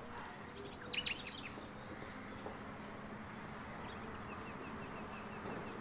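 Outdoor ambience of birds chirping over a steady background hiss. A quick cluster of chirps comes about a second in, and later a regular string of short chirps.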